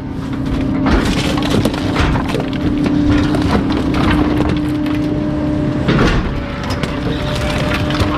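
Bulky-waste garbage truck's compactor crushing a load: a steady hum runs beneath repeated cracking and breaking, with loud cracks about a second in and about six seconds in.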